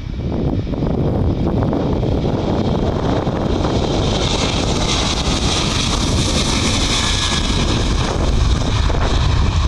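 Jet airliner engines running loud and steady, with a high hiss that swells in the middle and then eases; wind buffets the microphone.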